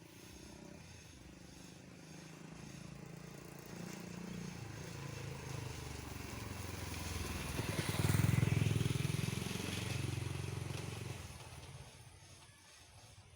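A motorcycle passing by on the road: its engine grows louder over several seconds, is loudest a little past the middle, then fades away.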